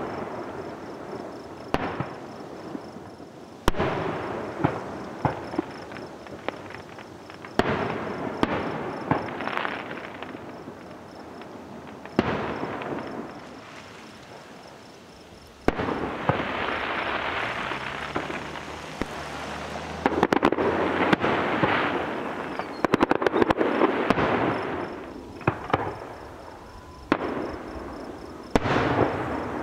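Fireworks display: aerial shells go off with sharp bangs every few seconds, each fading out slowly, and a run of rapid crackling pops comes in the second half.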